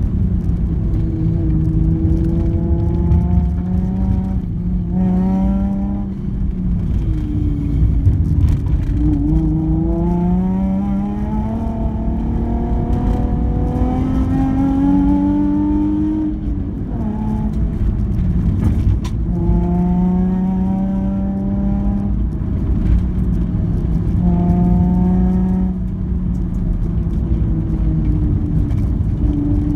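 Car engine accelerating hard on a hillclimb run, its note climbing over several seconds and then dropping again, over and over, as it is pushed between corners. Under it runs a steady rumble of tyres on a wet, gravel-strewn road.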